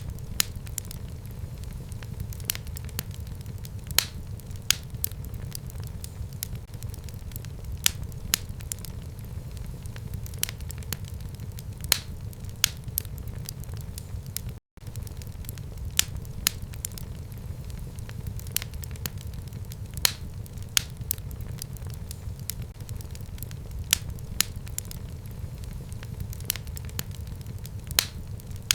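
Wood fire burning in a home fireplace: a steady low rumble of flame with frequent sharp crackles and pops from the burning wood. There is a split-second gap of silence about halfway through.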